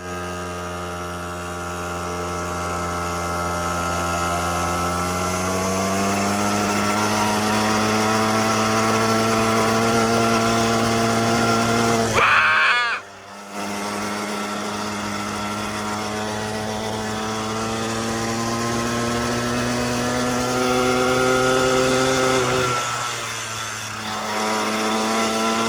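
Small petrol engine of a quad bike running under throttle, its pitch climbing over the first few seconds and then holding steady. It drops out briefly about halfway, picks up again, and eases off near the end.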